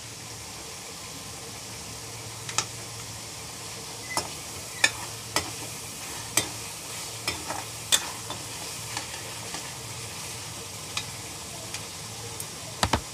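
Ground onion-ginger-garlic masala and tomatoes frying with a steady sizzle while being stirred, with scattered sharp clicks of the spoon against the pan. This is the bhuna stage, cooking the masala until the tomatoes break down.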